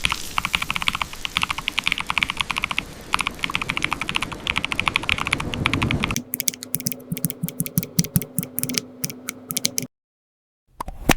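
Typing on a computer keyboard: a fast, dense run of keystrokes. About six seconds in the sound changes to sparser, separate key clicks over a low steady hum, then drops briefly to silence before a few more keystrokes.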